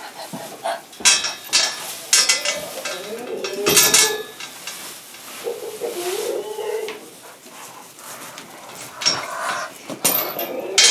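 Metal clanking and rattling in a goat pen, with Nubian buck goats bleating in wavering calls, one around the middle.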